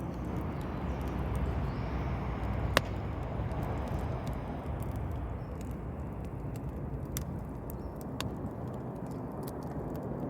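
Wood campfire crackling, with scattered sharp pops and one loud snap about three seconds in, over a steady low rushing noise.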